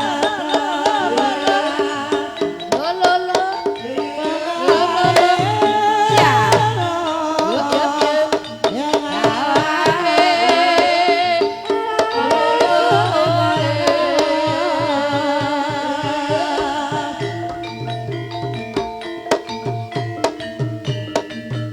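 Ebeg accompaniment music: a gamelan ensemble with kendang hand drums beating a steady rhythm, pitched metal instruments, and a singing voice that slides in pitch.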